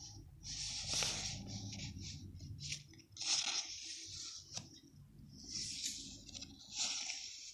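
Paper being handled and rustled while a journal is assembled: a string of soft, noisy swishes, each lasting about half a second to a second, with short taps between them.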